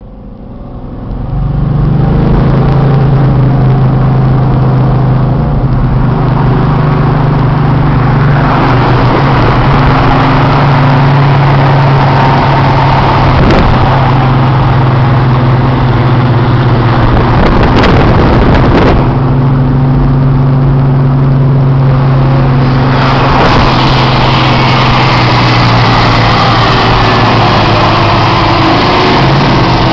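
1960s Dodge Charger V8 running steadily at cruising speed: a low, even engine drone over road and wind noise. It fades in over the first two seconds, and a brief rough disturbance comes about eighteen seconds in.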